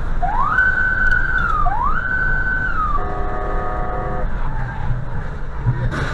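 Two whooping siren tones, each sweeping quickly up, holding and sliding back down. They are followed by a steady multi-tone horn blast of about a second, all over the rumble of road and engine noise.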